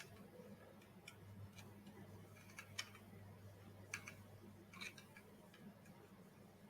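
Near silence: faint, irregular small clicks of robot head parts being handled and fitted during assembly, over a low steady hum. The clicks are uneven, with a few sharper ones in the middle.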